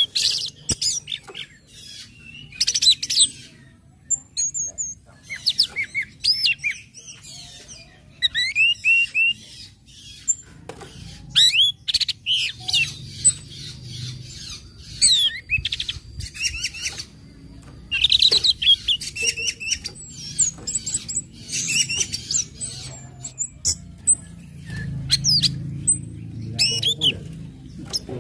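Orange-headed thrush singing: a quick, unbroken string of short whistled phrases and sharp chirps that sweep up and down in pitch, separated by brief gaps.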